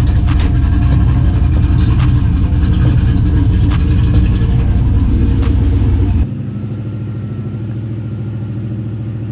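Turbocharged 388-cubic-inch LS V8 of a Chevy C10 street truck idling loudly, with sharp ticks over its low rumble. About six seconds in, the sound drops abruptly to a quieter, steady idle.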